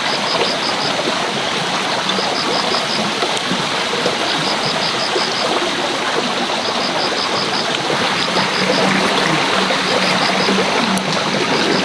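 Steady rushing of flowing water, like a stream, with a faint high chirp of four or five quick pulses repeating every couple of seconds.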